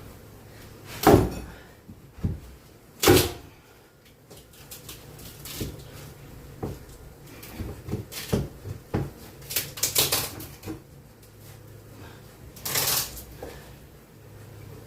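Scattered wooden knocks and clunks of beehive frames and boards being handled, the two loudest about one and three seconds in, with lighter clicks and rustling scrapes later on.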